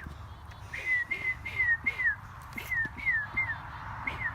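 A bird calling: a series of about ten short, clear whistled notes, each sliding downward, in quick loose groups.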